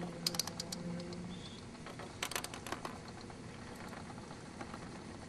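Two short runs of light, sharp clicks or taps, the first just after the start and the second about two seconds in, over faint background noise.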